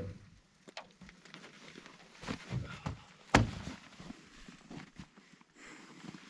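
A few scattered knocks and thuds, the sharpest and loudest a single sharp knock about three and a half seconds in.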